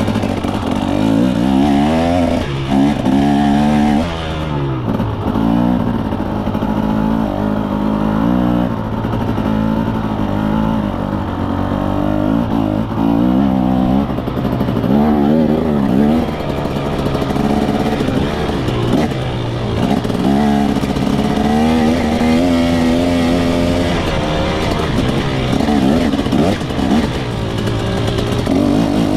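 KTM 300 SX single-cylinder two-stroke dirt bike engine being ridden, its pitch rising and falling again and again as the throttle is worked on and off.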